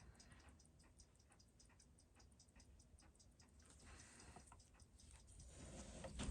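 Freshly assembled Seiko 6139 automatic chronograph movement ticking faintly and evenly, several ticks a second, as it runs on a timegrapher, with little beat error. A low handling rumble rises near the end.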